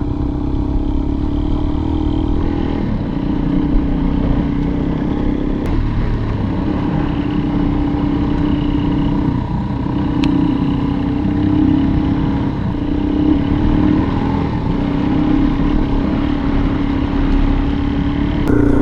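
Suzuki DR-Z400's single-cylinder four-stroke engine running at a steady trail pace, its note dipping briefly every few seconds as the throttle eases, over a low rumble.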